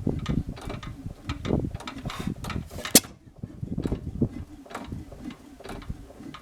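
1918 5 hp Monitor hit-and-miss engine running, its valve gear and flywheel turning with a steady rhythm of knocks and clicks, and one sharp loud crack about three seconds in.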